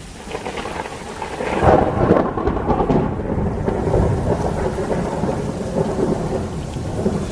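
A thunderclap during a heavy thunderstorm: the thunder builds over the first two seconds, peaks about two seconds in, then keeps rolling and rumbling, with rain falling throughout.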